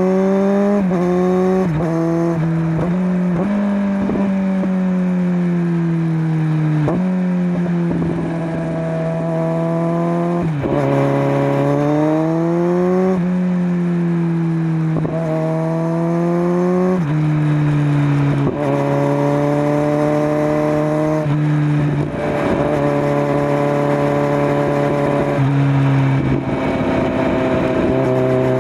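2021 Kawasaki Z900's inline-four engine through a LeoVince LV10 slip-on with the stock headers, under way: the revs climb and fall again and again, and the pitch drops sharply at each gear change. There are several quick shifts in the first few seconds, then longer pulls and roll-offs.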